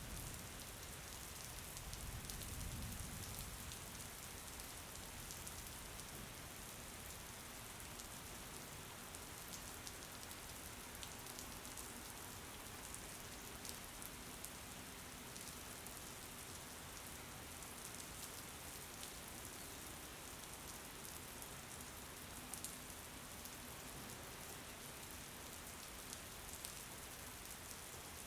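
Steady rain: an even hiss with many small drop ticks. A brief low rumble swells about two to four seconds in.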